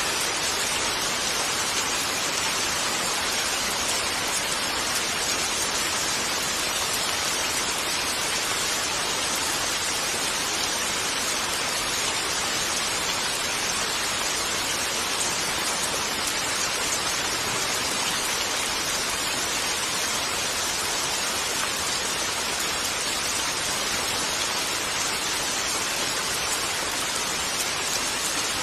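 Gentle rain falling steadily, an even hiss that neither builds nor fades.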